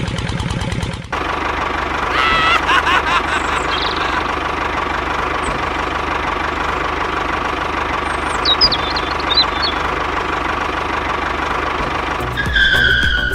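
Small engine running steadily, then a continuous machine whirr, with a few short high chirps over it.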